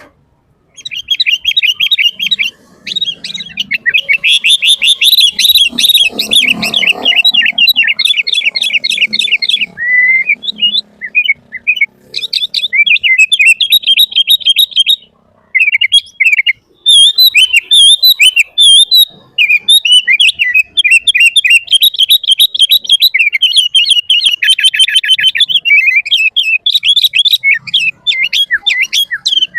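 Sooty-headed bulbul (kutilang) singing continuously in fast, dense runs of high chirps and trills, starting about a second in, with a short pause about halfway through.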